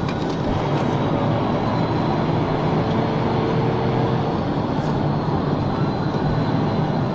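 Police patrol car driving at high speed in a pursuit: steady engine, tyre and wind noise.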